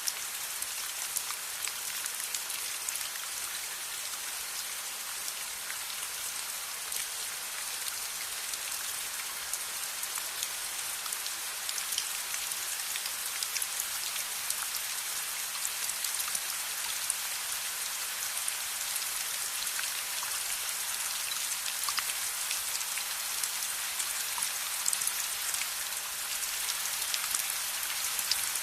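Steady rain falling: a dense, even hiss of drops with many scattered sharp ticks of individual drops striking a surface.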